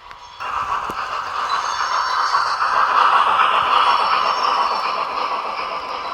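H0 scale model train rolling along the track, a steady rattling hum of wheels on rail. It starts suddenly about half a second in, grows louder toward the middle, then eases off as it passes.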